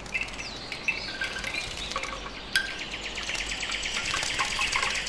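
Forest birds chirping and whistling in short notes, joined about halfway through by a fast, evenly repeated run of short notes.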